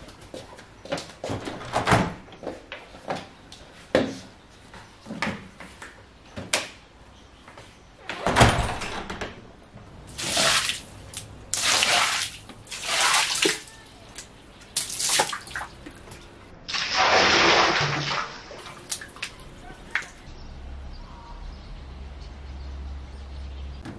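Kitchen handling sounds: a run of knocks and clicks, then several short rushes of noise from about ten seconds in, the longest a little past two-thirds of the way through.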